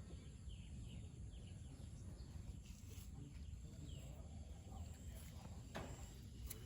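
Songbirds chirping and calling, many short quick notes scattered throughout, over a low steady rumble. A couple of sharp clicks near the end.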